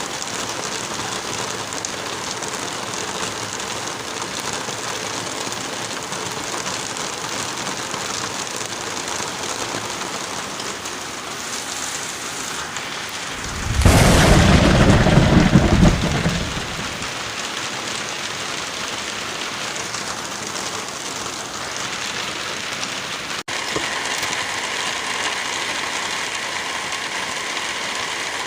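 Wind and light rain in a forest, a steady even hiss. About halfway through, a loud, deep rumble starts suddenly, lasts about three seconds and fades. Near the end the sound cuts out for an instant and resumes slightly brighter, like a splice in the recording.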